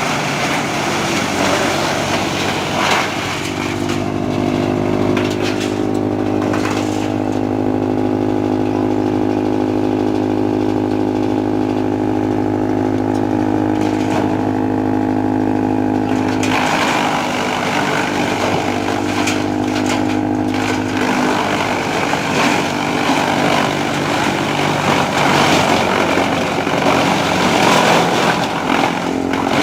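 Trakstar 545 DI diesel tractor driving a wood chipper. Through the middle the engine and chipper run with a steady, even drone; at the start and from a little past halfway a rough, crackling noise rides over it as wood is fed in and chipped.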